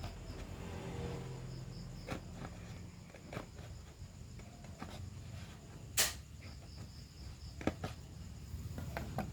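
Scattered light clicks and taps from handling loudspeaker parts during a repair, with one sharper click about six seconds in, over a low steady hum and faint insect chirping.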